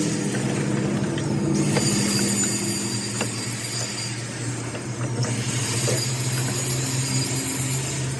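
A machine motor running steadily with a low hum, with a few light metallic clicks.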